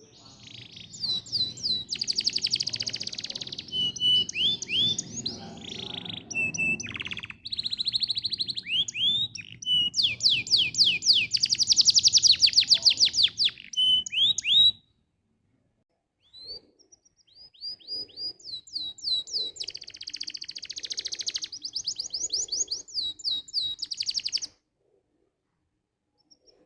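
Domestic canary singing in long, fast rolling trills of rapid repeated chirps mixed with short whistled notes. It comes in two song bursts, the first about fifteen seconds long and the second about eight, with a short pause between them.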